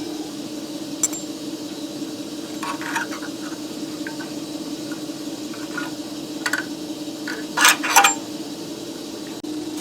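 Scattered light metallic clinks and taps of small steel pieces being handled, over a steady hum. The loudest few clinks come about three-quarters of the way through.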